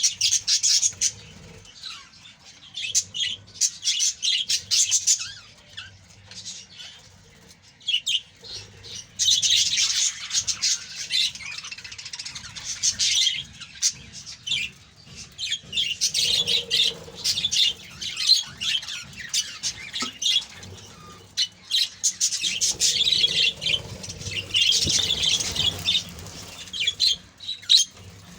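A colony of budgerigars chirping and chattering in loud bursts, with short quieter gaps between.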